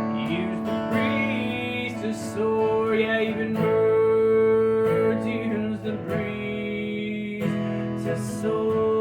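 Instrumental music from the song, led by acoustic guitar.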